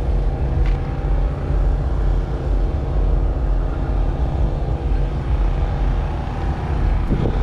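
An engine running steadily at idle: a continuous low rumble with an even hum over it.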